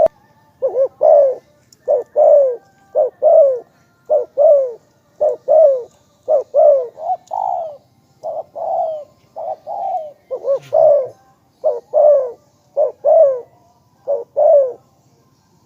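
Spotted dove cooing: a long run of short coos, each falling in pitch, about two a second.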